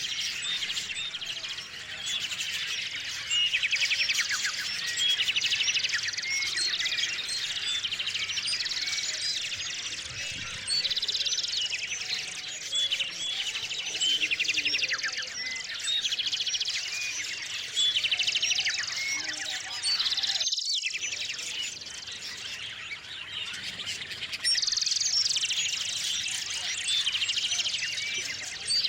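A dense chorus of small songbirds chirping together, many short overlapping calls with repeated rapid trills. The sound cuts out for a split second about two-thirds of the way through.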